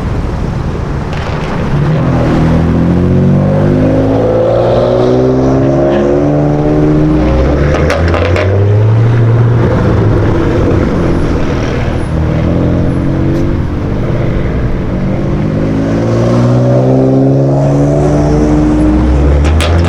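Sports car engine accelerating hard, loud, its pitch climbing in steps as it pulls through the gears, twice: once in the first half and again in the second half.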